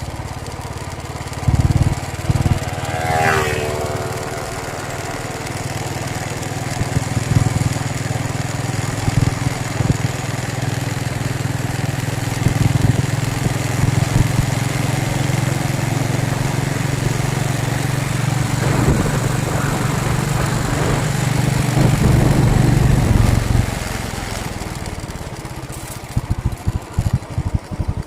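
An engine running steadily, with a brief rise in pitch about three seconds in. Near the end it fades and gives way to a quick rhythmic pulsing.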